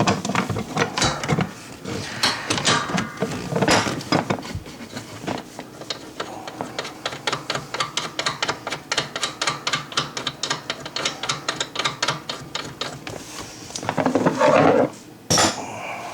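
Hand tools clicking and knocking against metal, with a long run of quick, even clicks, about five a second, in the middle, and a louder scraping clatter near the end.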